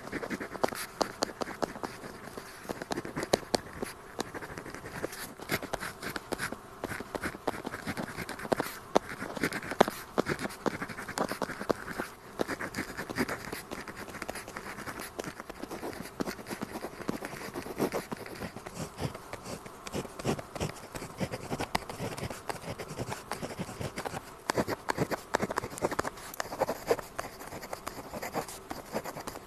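Pen tip scratching across paper in continuous writing strokes, with many small ticks throughout.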